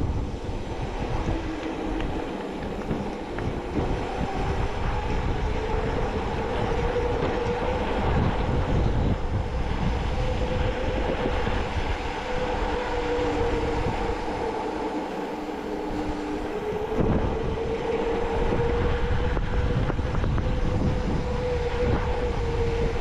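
Car driving along a road: steady engine and road rumble with a whine that drifts slowly up and down in pitch.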